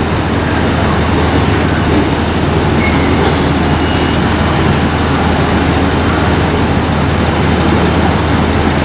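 MTR East Rail line electric train pulling out of the platform and away, a steady loud rumble of wheels and running gear, with a few faint high squeaks midway.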